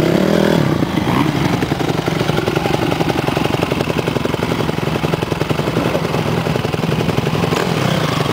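Motocross bike engine running hard at a steady pitch, its rapid firing pulses coming through loud and unbroken.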